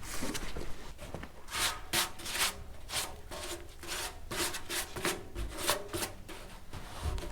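Rough rasping, scraping strokes, about two a second, each short and gritty.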